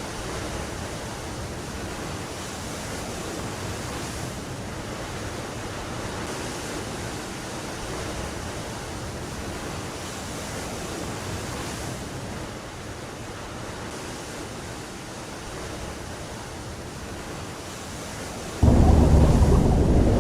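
Steady sea-and-wind ambience with slow swells every couple of seconds. Near the end, a much louder, deep rumbling noise cuts in suddenly and keeps going.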